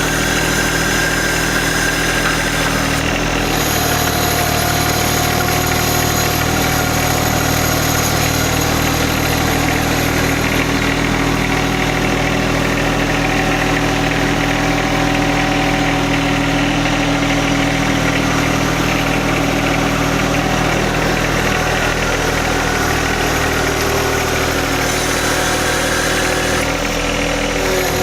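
John Deere 1025R sub-compact tractor's three-cylinder diesel engine running steadily while working the compost pile, with a whine that drifts slightly in pitch above the engine note.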